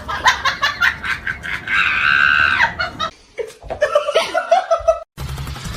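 People laughing in quick bursts, then a long high-pitched squeal.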